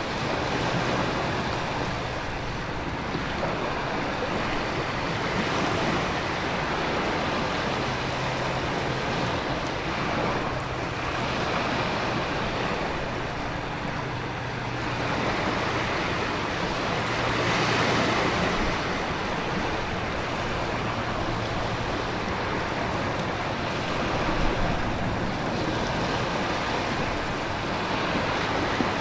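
Storm ambience: heavy rain and wind as a steady rush, with ocean surf swelling and easing every few seconds.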